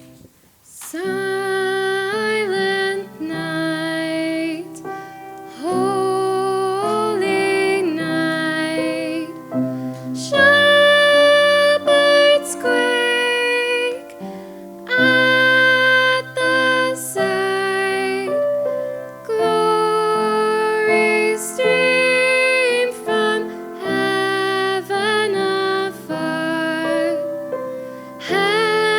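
Live music: a high voice sings a slow melody with long held notes over instrumental accompaniment.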